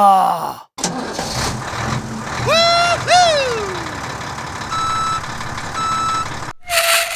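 Sound effects of a heavy construction vehicle: an engine running steadily. Over it, about halfway in, a pitch rises and then slides down, and then come two long beeps about a second apart, like a truck's reversing alarm. Near the end there is a short noisy burst with a held tone.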